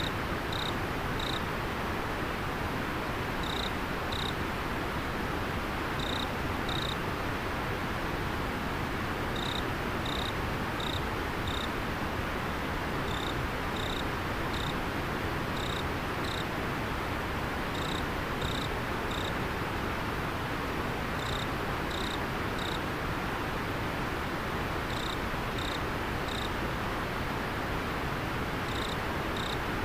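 Steady rush of a flowing river, with an insect chirping over it: short high chirps in groups of two to four, repeated every couple of seconds.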